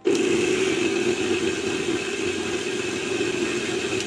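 Butterfly mixer grinder's motor switched on and running at speed: it starts abruptly and then runs steadily with a hum and a hiss. The heavy running noise is the sign of a loose carbon brush holder and a worn commutator.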